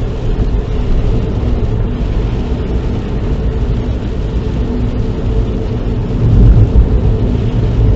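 Car engine and tyre noise heard from inside the cabin while driving on a wet road, a steady low rumble that swells briefly about six seconds in.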